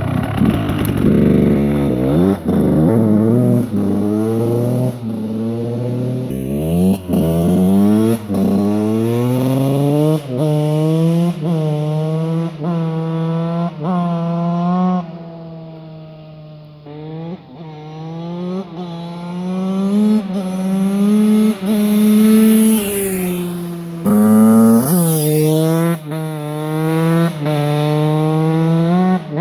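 Dirt bike engine revving hard over and over, its pitch climbing and dropping about once a second. It eases off to a lower, quieter run for a few seconds in the middle, then revs up again.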